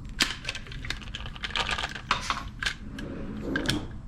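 Quick, irregular small metallic clicks and rattles from a rifle being handled: the action of an AR-15 pistol fitted with a .22LR conversion kit being worked after a light primer strike.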